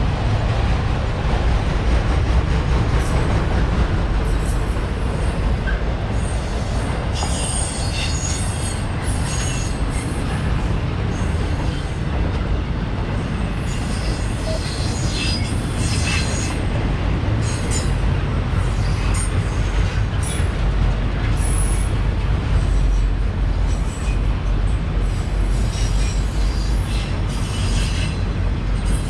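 CSX freight train cars rolling past, a steady low rumble of wheels on rail with intermittent high-pitched wheel squeal coming and going throughout.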